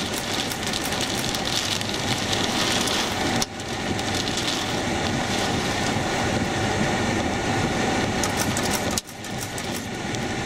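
Steady rushing wind noise on the microphone near a tornado, with sudden brief drops about three and a half seconds in and again near the end.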